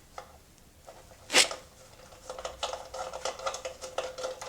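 Hand tools and a steel sump bolt at work on an engine: one sharp metallic clink about a second and a half in, then a run of quick, light, irregular clicks for the last two seconds, like a socket ratchet driving a bolt in.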